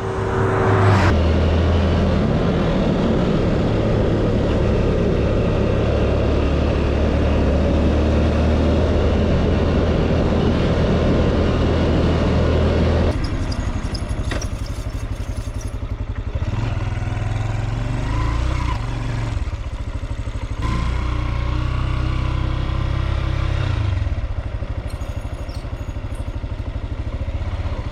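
Motorcycle engine running under way, with rushing wind noise over it. About halfway through the wind noise drops away and the engine note keeps rising and falling.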